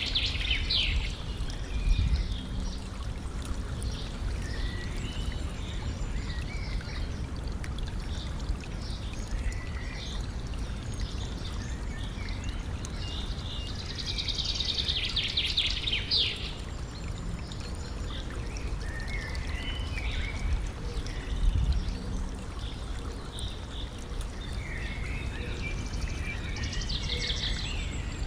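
A stream flowing and trickling steadily, with a bird's fast trilling song three times (near the start, in the middle and near the end) and scattered shorter chirps from other birds. A low thump is heard twice, about two seconds in and about two-thirds of the way through.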